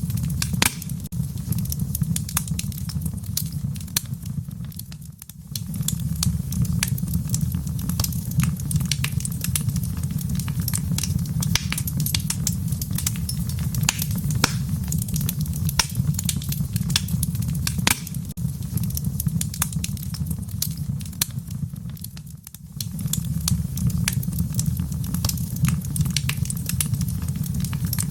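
Wood fire crackling in a fireplace: a dense run of sharp pops and snaps over a steady low rumble of flame. The sound dips briefly twice, about seventeen seconds apart.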